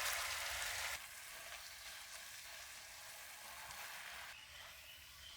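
Food frying in hot oil with a steady sizzle, loud at first and dropping abruptly to a quieter sizzle about a second in.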